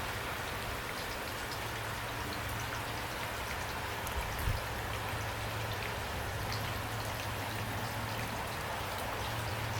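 Steady heavy rain, with individual drops ticking and pattering on a surface over an even rush, and a low steady hum underneath. A brief soft thump comes about four and a half seconds in.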